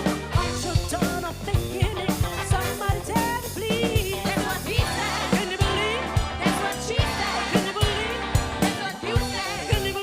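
Live funk and soul band playing: drum kit with regular snare hits under bass and a sung melody line.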